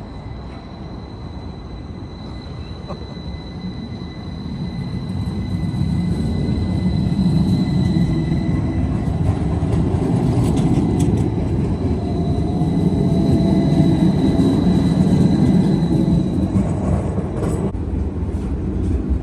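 Tvärbanan light-rail tram running on its tracks: a steady rumble with a thin high whine, getting louder from about five seconds in as the tram picks up speed, then running on steadily.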